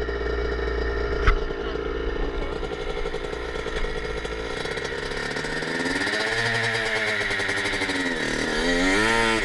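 Dirt bike engine running, fairly steady at first, then rising and falling in pitch as it is revved in the second half. A sharp click about a second in.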